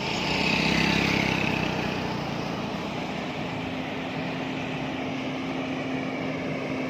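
A heavy container truck's diesel engine and tyres going by, loudest about a second in and then settling into a steady drone.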